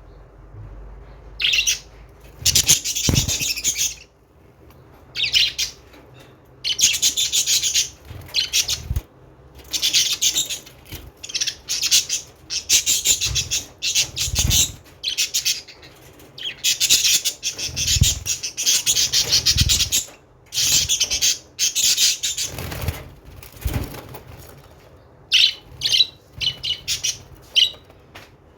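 Budgerigars chattering in repeated high-pitched bursts of a second or two, with short pauses between, and a few quick chirps near the end.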